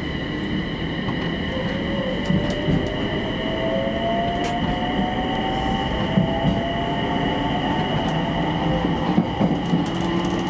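Electric commuter train running along the rails, heard from inside the front car: a steady rumble and rail noise, with a faint whine that rises slowly in pitch and a few light clicks.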